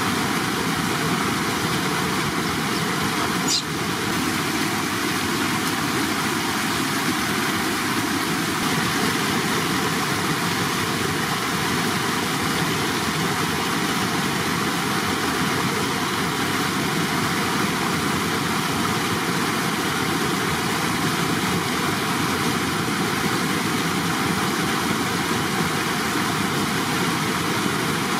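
Running water: a steady, even rush of flowing water, with a brief click about three and a half seconds in.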